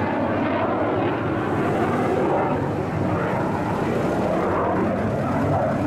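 Four-cylinder engine of a 1950s Austin saloon running steadily close by, a dense, even engine noise.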